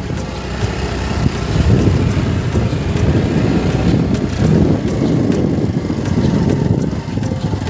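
Motorcycle running while being ridden: a steady, rumbling ride noise with scattered sharp clicks and rattles throughout.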